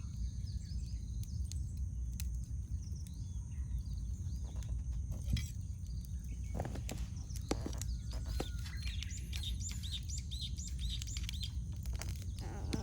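Wild birds singing, with a quick run of repeated chirps in the second half, over the crackle and sharp pops of a wood campfire and a steady low rumble.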